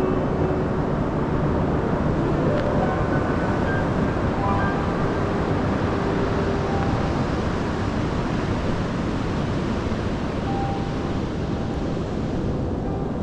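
Pacific Ocean surf washing steadily on a sandy beach, a continuous wash of noise with a little wind on the microphone. Faint musical notes sound under it now and then.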